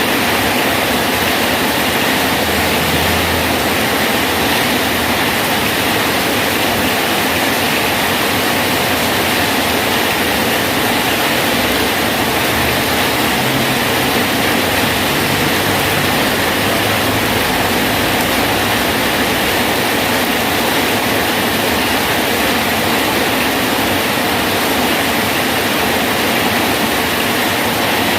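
Rain falling steadily on a bridge, an even, unbroken hiss.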